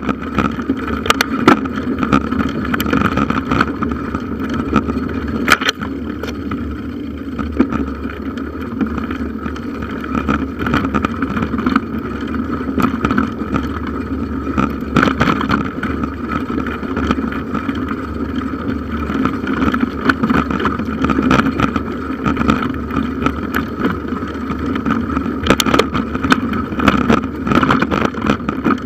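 Bicycle riding over a forest trail as picked up by a handlebar-mounted camera: continuous rumble and vibration rattle, with frequent sharp knocks from bumps.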